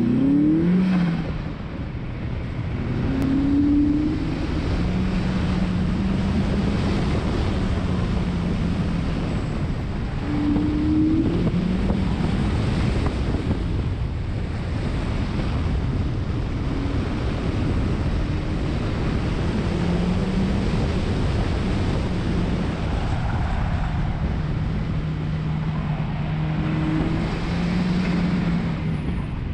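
A car's engine being driven hard through an autocross course: its note climbs under throttle and drops off again and again as it accelerates and lifts between the cones. A heavy rush of wind on the microphone runs under it.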